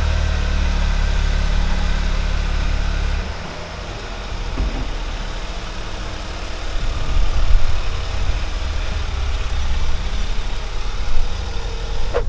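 Toyota GR Yaris's turbocharged 1.6-litre three-cylinder engine idling just after being started, heard from inside the cabin. It settles a little quieter about three seconds in, then rises and falls unevenly in the second half.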